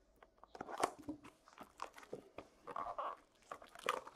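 Trading card packaging being handled and opened: irregular crinkling, tearing and small clicks of wrappers and cardboard.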